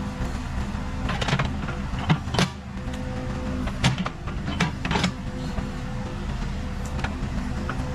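Case 580 Super K backhoe loader's diesel engine running steadily under work, with sharp knocks and clanks every second or two.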